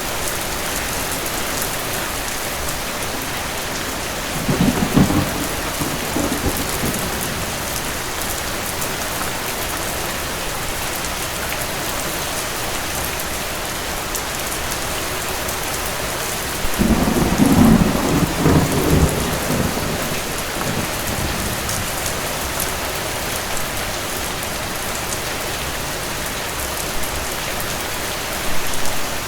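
Steady rain with distant thunder rolling twice: a short rumble about five seconds in, then a longer, louder roll of several seconds about seventeen seconds in. A brief smaller rumble comes near the end.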